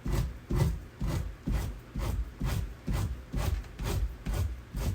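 Scraping strokes on an otter's tail and hide, a fleshing tool working the fat off in an even rhythm of about two strokes a second.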